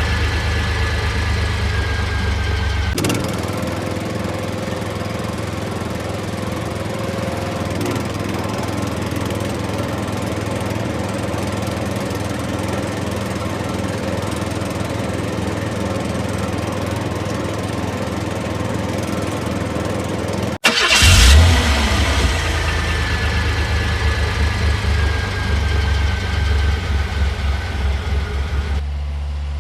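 A vehicle engine running steadily. About two-thirds of the way through it cuts out abruptly, then starts up again louder with a falling whine and settles back to running.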